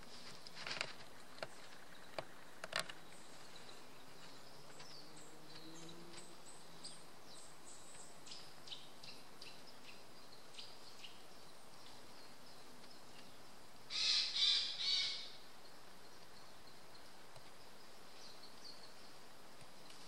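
Japanese white-eyes giving thin, high calls in a scattered series, after a few faint clicks. About fourteen seconds in, a louder, harsh call in three quick parts from another bird.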